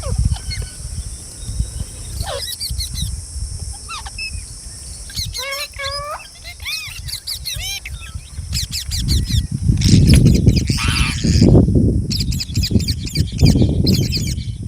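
Green parrots calling: short squawks and chirps that bend up and down in pitch, one after another. About eight seconds in, a loud low rumble sets in under rapid high-pitched chattering.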